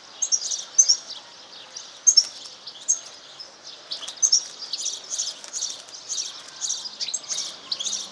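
Serin × canary hybrid songbird singing a fast, unbroken stream of high twittering chirps and trills.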